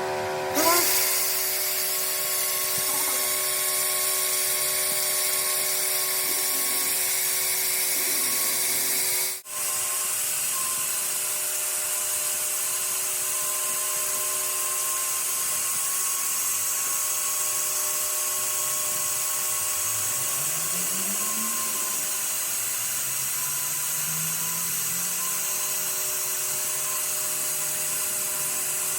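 A power tool running steadily with a high whine and hiss. It drops out briefly about nine seconds in, then carries on unchanged.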